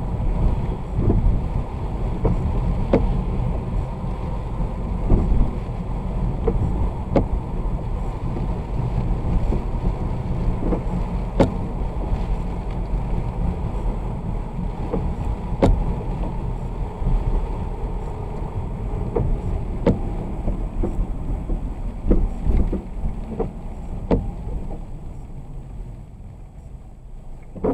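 Car driving on a wet road, heard from inside the cabin: a steady low rumble of road and engine noise with scattered sharp taps, easing off a little near the end.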